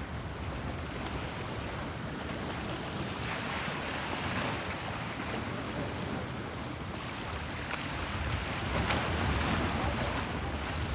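Waves of the Bosphorus washing against the shore, swelling twice, with wind on the microphone.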